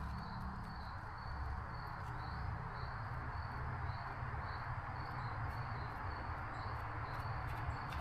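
A cricket chirping steadily, about two short high chirps a second, over a constant low hum.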